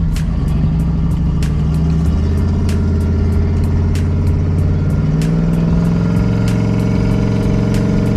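Turbocharged pickup truck engine heard from inside the cab while driving, its pitch climbing as it pulls, dropping about five seconds in, then climbing again.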